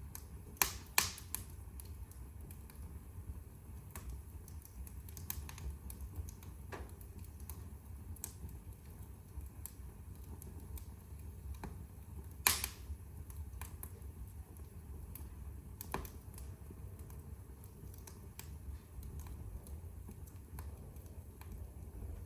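Wood fire crackling in a fireplace: many small irregular crackles over a low steady rumble, with a few louder pops, two close together right at the start and the loudest about halfway through.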